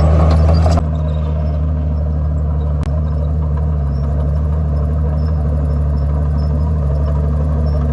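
Komatsu D51PX bulldozer's diesel engine running, louder for the first second and then settling to a steady, even running. A faint click about three seconds in.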